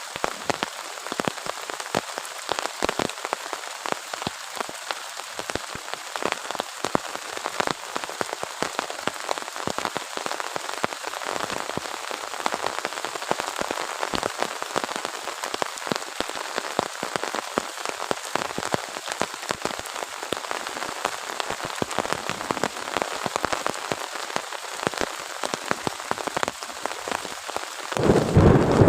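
Heavy rain falling on a surface: a steady hiss packed with the ticks of individual drops. Near the end a louder, deeper sound cuts in suddenly.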